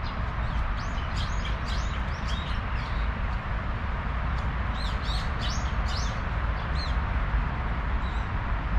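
Small birds chirping, with quick high calls in two busy clusters, over a steady low rumble.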